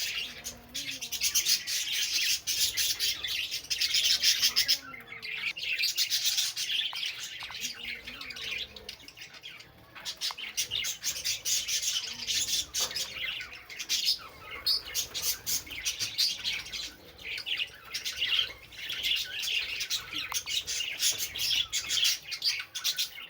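Lovebirds chattering: a dense, continuous stream of rapid high-pitched chirps, with brief lulls about five and ten seconds in.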